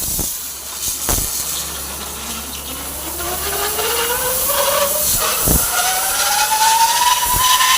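Compressed air hissing against a truck filter, with sharper blasts of air now and then and a thin whistle that rises steadily in pitch over the last few seconds.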